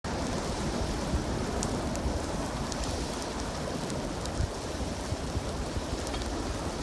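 Steady dense rushing noise that starts abruptly, with scattered sharp crackles over it.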